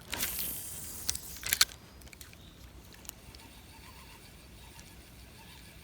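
Rustle of feet or legs pushing through vegetation in the first second or so, followed by a few sharp snaps or clicks, the loudest around a second and a half in. After that only faint ticks over quiet outdoor background.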